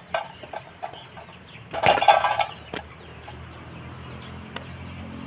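Rooster clucking in short calls, loudest about two seconds in, then a low steady hum for the rest of the time.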